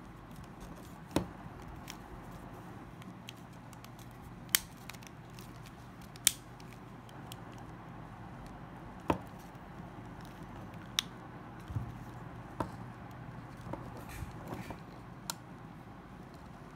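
Irregular sharp clicks and taps of small phone parts and tools being handled during a phone motherboard replacement, about eight distinct ones, over a faint low steady hum.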